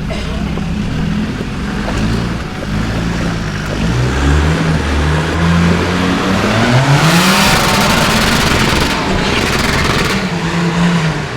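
Off-road 4x4's engine revving hard on a muddy hill climb, its pitch rising and falling with the throttle. From about seven seconds in, a loud rushing noise from the spinning tyres in the mud joins it for a few seconds.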